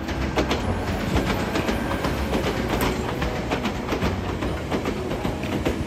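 Nose Electric Railway 1700 series electric train passing, a steady rumble with a run of wheel clacks over the rail joints.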